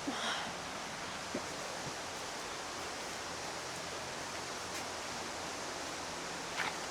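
Steady rushing of falling water, an even hiss with no rhythm, as in the indoor rainforest's waterfall and misting.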